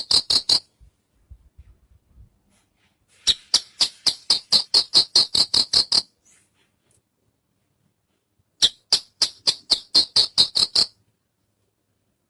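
Javan bush lark (branjangan) singing in trills of rapid, evenly spaced sharp high notes, about seven a second. A trill ends just after the start, and two more follow, each two to three seconds long, with short pauses between.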